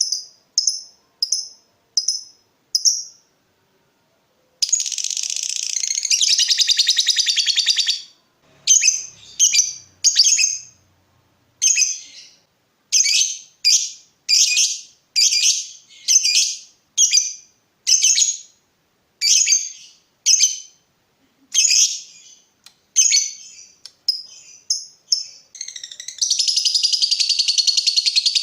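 Lovebird song: sharp, high chirps repeated about twice a second (the 'ngetik' ticking), twice giving way to a long unbroken trilling chatter (the 'ngekek'), one lasting about three seconds a few seconds in and another starting near the end.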